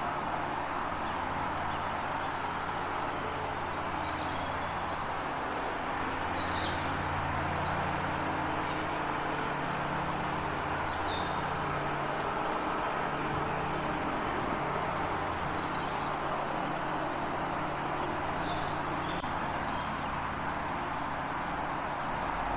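Small birds giving short, high chirps now and then over a steady low rumble, like distant traffic.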